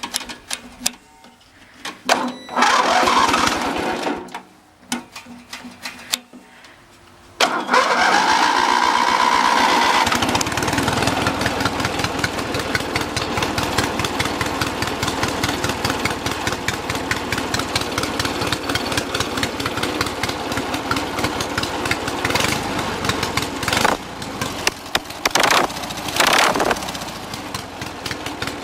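Lawn mower engine being started: a few short, scattered sounds for the first seven seconds, then it catches suddenly and runs steadily with a fast, even pulse.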